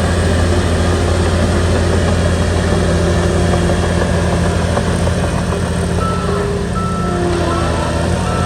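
Shantui bulldozer's diesel engine running steadily with a low, even drone.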